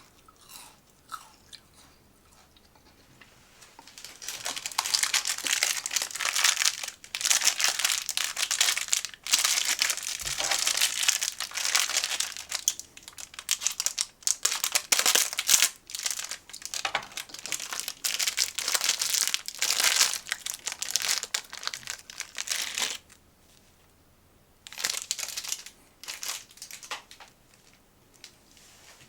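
Close-miked chewing of a crunchy snack: dense, crackly crunching from a few seconds in until near the end, a pause, then a short spell of crunching again.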